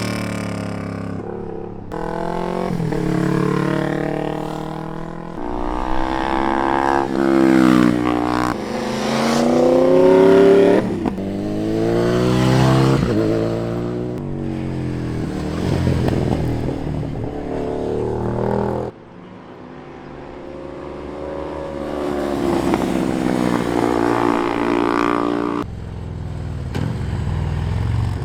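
Superbike engine under hard riding, its revs climbing and dropping again and again as the rider accelerates and shifts. About two-thirds of the way through the sound falls away sharply as the throttle closes, then builds again.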